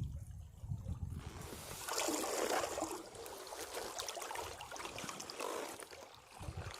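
Caribbean sea waves breaking on rocks: a surge of splashing, hissing water from about a second and a half in that slowly fades, with the low rumble of the next wave coming in near the end.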